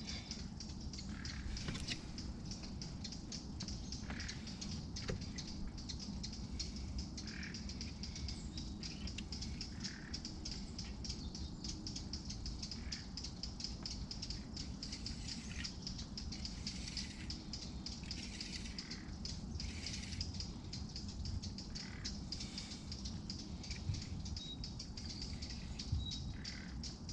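Birds chirping now and then over a steady, rapid high-pitched trill that runs without a break, with a low background rumble. A couple of small knocks come near the end.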